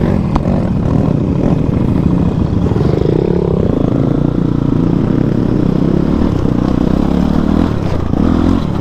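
Motorcycle engine running while riding over a rough off-road track, the sound of the engine mixed with a continuous low rumble.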